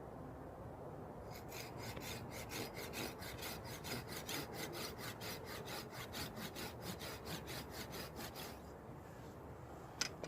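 Hand saw cutting into a wooden stick in quick, even back-and-forth strokes, starting about a second in and stopping near the end. One sharp click just before the end.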